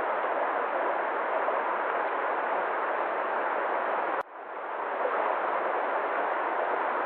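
Steady rushing nature ambience. About four seconds in, a sharp click and a sudden drop in level break it, and the sound fades back up within a second.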